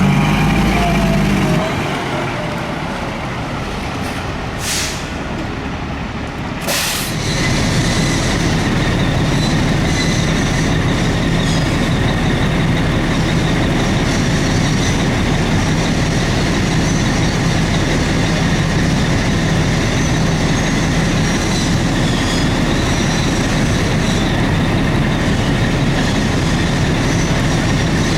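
Fire apparatus diesel engine running steadily with a constant low hum. Short air-brake hisses sound about five and seven seconds in.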